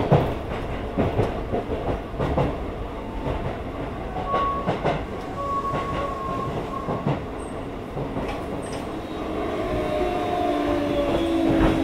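Hokuso 7300-series commuter train running, heard inside the car directly above its Toyo GTO-VVVF inverter: steady running noise with scattered clicks from the rail joints. Several steady inverter tones come in near the end, drifting slightly lower.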